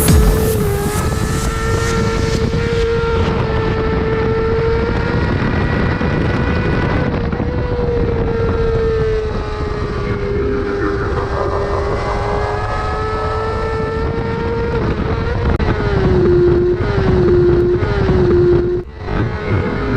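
Yamaha R6's 599cc inline-four sportbike engine running at high, nearly constant revs on track. The pitch sags and recovers a few times, dips in three quick steps near the end, and drops briefly in loudness just before the end.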